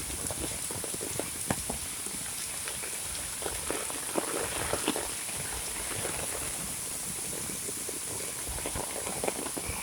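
Heavy monsoon rain falling: a steady hiss with many separate drops striking close by, a few louder splats scattered through.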